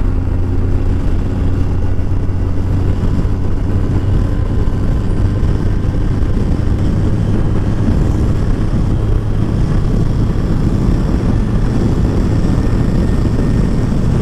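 Kawasaki ZZR1400 inline-four engine cruising at a steady speed, a constant low drone mixed with wind and road noise.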